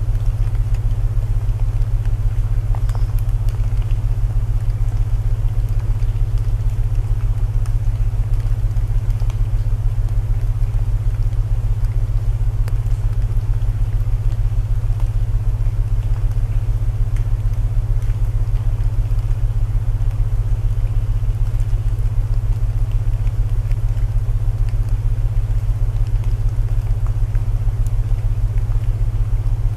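Steady low binaural tones humming without a break, layered over a soft even rain hiss with faint scattered crackles of burning wood.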